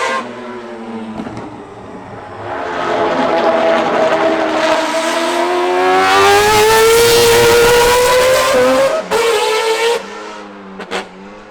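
Mazda RX-7's four-rotor rotary engine revving hard, its pitch climbing steadily for several seconds. It cuts off sharply about nine seconds in, comes back in one short burst, then drops to a quieter run with a couple of quick throttle blips near the end.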